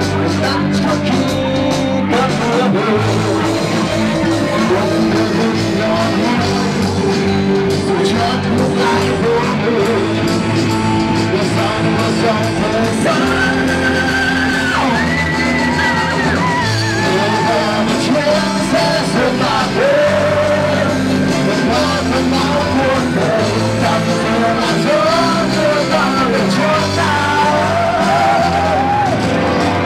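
Rock band playing live, with a singer's voice and a steady bass line; the singing starts about halfway through.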